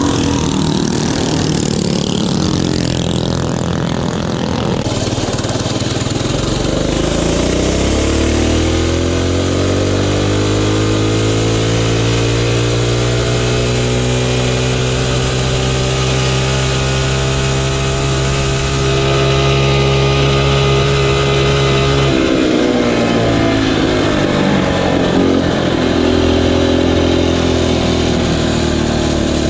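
Mini bike engine revving up and held at high revs for about a dozen seconds, then dropping off abruptly; it revs up again near the end.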